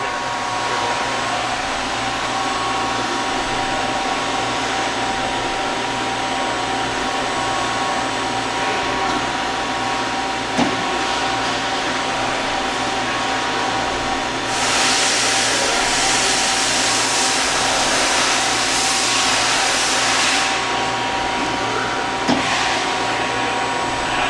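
Hurco TMX-10MYi CNC turning center running, a steady machine whine and hum. From about fourteen to twenty seconds in, a louder hiss joins it, and there are two sharp clicks, one near the middle and one near the end.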